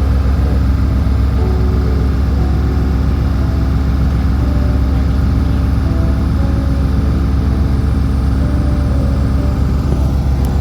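Lake shuttle boat's engine running steadily, a constant low drone heard on board.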